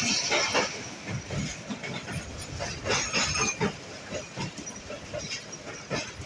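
Passenger train crossing a steel bridge, heard from the coach: wheels clacking and rattling over the rail joints with a steady rushing noise. It is louder for the first half second and has a brief hissing rush about three seconds in.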